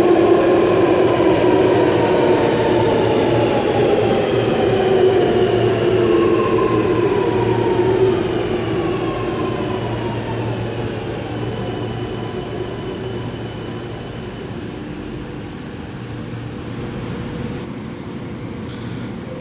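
Alstom Metropolis driverless metro train pulling into the platform and braking. Its electric traction drive whines in several tones that fall steadily in pitch as it slows, and the noise fades as it comes to a stop.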